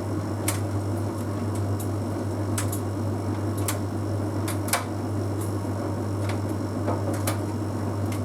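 Bosch Series 6 heat pump tumble dryer running mid-cycle: a steady low hum with sharp, irregular clicks about once a second as the drum turns.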